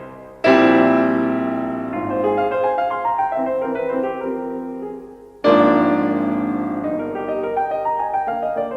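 Background piano music: a chord struck about half a second in and another about five and a half seconds in, each fading away under quieter notes.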